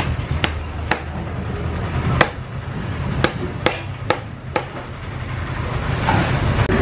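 A long knife chopping batfish fillet into chunks on a wooden tree-stump block: about eight sharp chops, unevenly spaced, in the first four and a half seconds.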